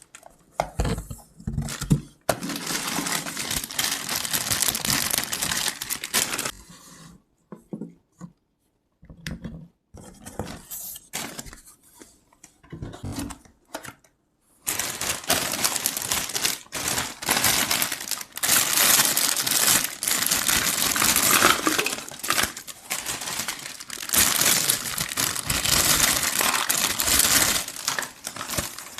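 Plastic packaging crinkling and tearing as a toy kitchen playset is unwrapped, with small hard toy pieces clicking together. There is a quieter lull in the middle, then the crinkling resumes more densely.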